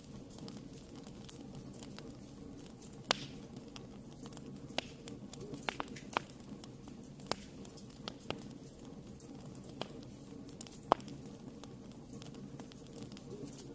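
Wood fire burning in a fireplace: a steady low rumble of flames with irregular sharp crackles and pops, about a dozen, the loudest about three seconds in and near the end.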